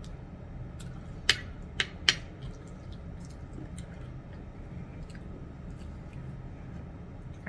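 Open-mouthed mukbang-style chewing: wet mouth clicks and smacks, three sharp ones about a second in, then fainter scattered clicks, over a steady low hum.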